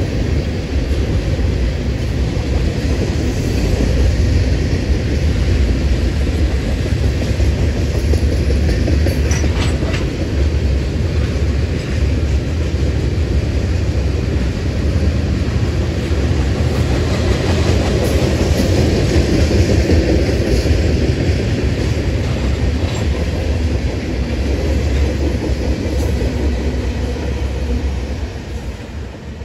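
Freight train tank cars rolling past: a steady rumble of steel wheels on the rails with occasional sharp clicks, growing fainter near the end.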